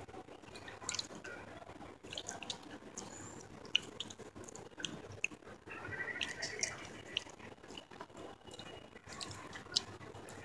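Close-miked mouth sounds of a person chewing a mouthful of broken clay pot, made up of scattered wet clicks and smacks of the lips and tongue.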